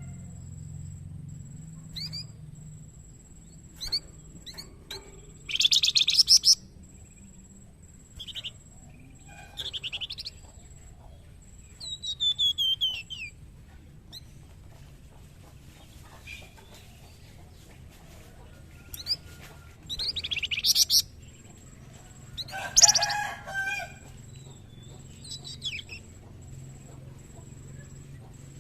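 Young flamboyan songbird singing in short bursts of high, rapid chirps and trills, with a few slurred falling notes and pauses of a second or more between phrases. A steady low hum runs underneath.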